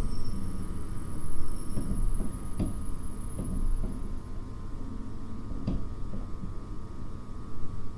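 Interior running noise of a JR Hokkaido 733 series electric multiple unit: a steady low rumble with a steady hum, and two sharp knocks about three seconds apart. A faint high whine fades out about halfway through.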